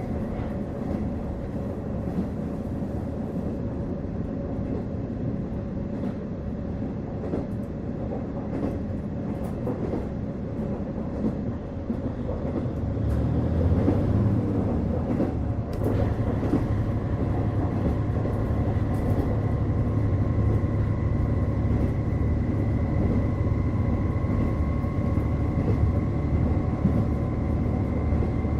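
Running sound inside a KiHa 48 diesel railcar: a steady rumble of the engine and wheels on the rails. About halfway through the engine note grows louder and a thin whine sets in, rising slowly in pitch as the car picks up speed under power.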